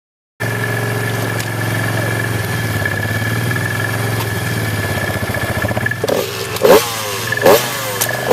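Motor-vehicle engine running steadily, then revved in several short, sharp blips in the last couple of seconds.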